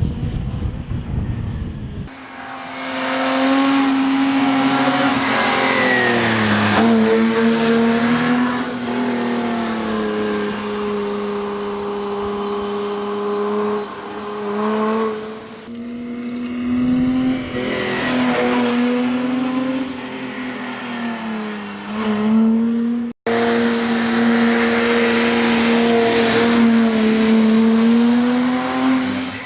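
BMW E30 325i's straight-six engine running hard under load, its pitch climbing and dropping back again and again through gear changes. It cuts off for a moment about two-thirds of the way through and picks up again.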